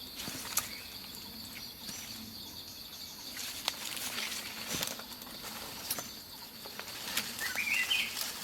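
Tropical forest ambience: a steady high insect drone with scattered small clicks and rustles, and a short warbling bird call about seven and a half seconds in.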